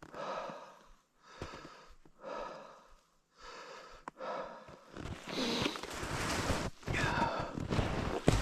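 A person breathing heavily and rhythmically close to the microphone, about one breath a second. From about five seconds in, louder footsteps crunch through undergrowth.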